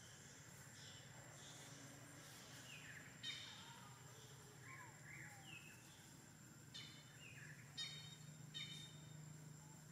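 Faint birds chirping in forest ambience: scattered short chirps and whistles, with a few brief harsher calls about three, seven and eight seconds in.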